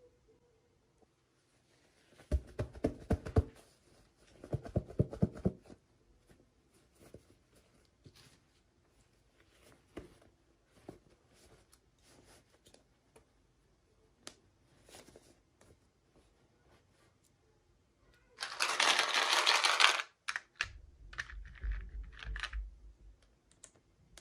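Hands unboxing miniature toy dolls and their packaging: scattered small clicks and taps, with several louder bursts of handling noise. The loudest is a rustle lasting about a second and a half, about three-quarters of the way through.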